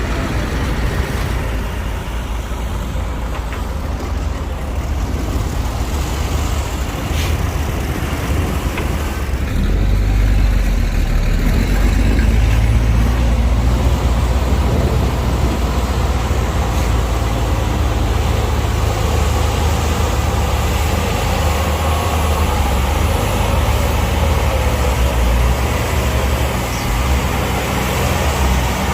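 Heavy diesel machinery engines running at a dirt-fill site, dump truck and bulldozer, with a steady deep engine drone that grows louder about ten seconds in.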